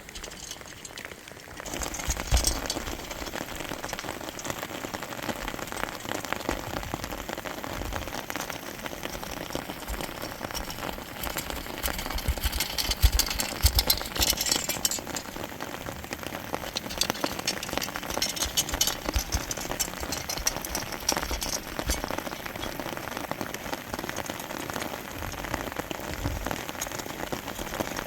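Steady rain, a dense spray of fine drop impacts that comes in suddenly about two seconds in.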